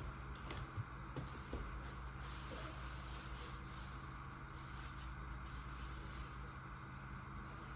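Steady low room hum with a few faint clicks and rustles of small handling movements.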